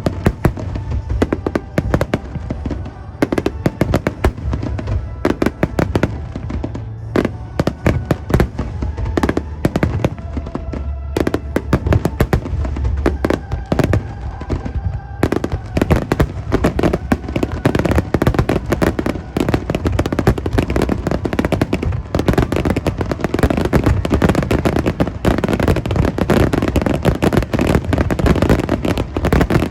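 Fireworks finale: shells bursting in quick succession, thickening about halfway into a dense, nearly continuous barrage of bangs, with music playing underneath.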